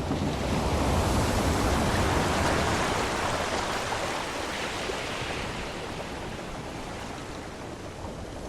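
Sea waves: a rushing wash that swells in the first second, is loudest for a couple of seconds, then slowly dies away.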